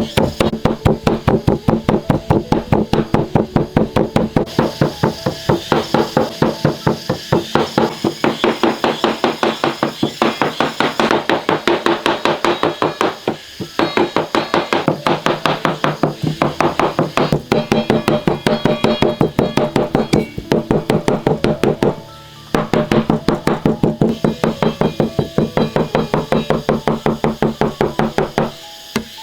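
Rapid chopping with a cleaver on a wooden board, about five strokes a second, stopping briefly three times.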